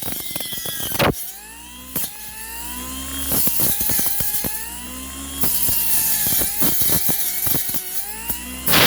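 Cordless brush cutter's brushless electric motor whining, its pitch dropping and rising again as the dull cutter blade bites into bush stems. Sharp ticks and knocks of the blade striking the wood are mixed in, with a loud noisy burst about a second in.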